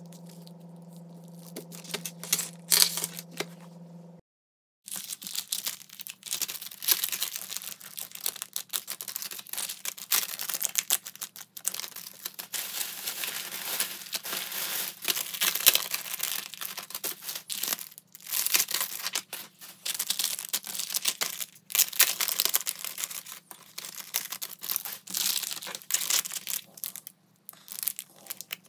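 Clear plastic bags crinkling and rustling in dense, irregular crackles as hands handle and open them, with a few brief pauses. For the first few seconds, before this, there is light rustling of a plastic binder sleeve over a steady low hum.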